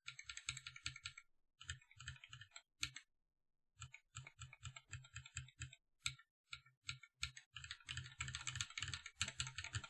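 Mechanical keyboard with Holy Panda tactile switches being typed on: quick runs of key presses and returns, with two short pauses.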